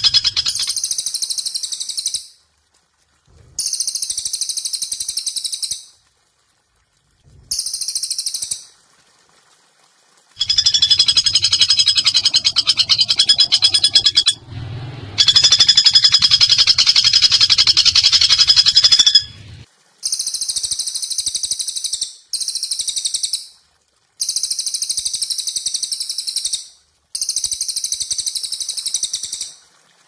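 Bird calls: rapid, high-pitched rattling trills, repeated in about nine bursts of one to four seconds each with brief silences between them.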